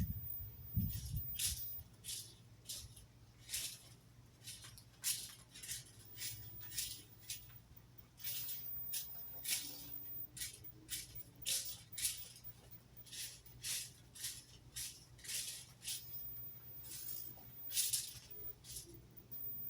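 Rake scraping through leaves in a steady run of short sweeping strokes, about one to two a second.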